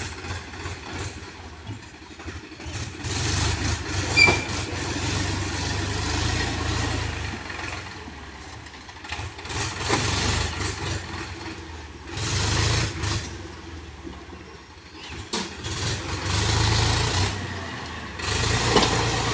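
Heavy diesel engine running, its loudness rising and falling in several swells a few seconds apart.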